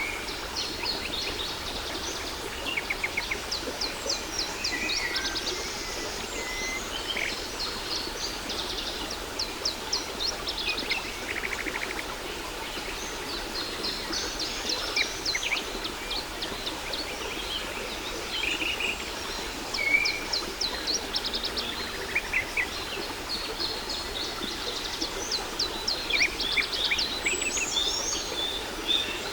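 Many songbirds chirping and singing quick trills over the steady rush of a waterfall.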